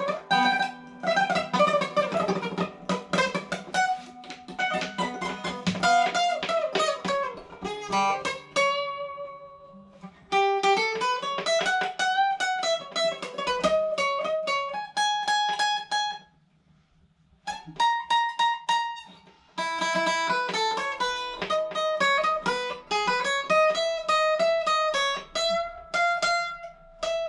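Solo guitar playing a picked single-note melody with sliding runs up and down the neck. The playing stops for about a second and a half about two-thirds of the way through, then resumes.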